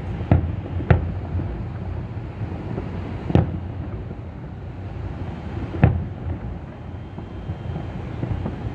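Fireworks bursting: four sharp bangs, the first two close together near the start and two more a few seconds apart, over a steady low rumble of wind on the microphone.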